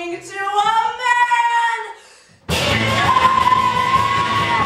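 A drawn-out voice sliding upward in pitch, then after a brief pause loud music cuts in suddenly with one high note held steady over it.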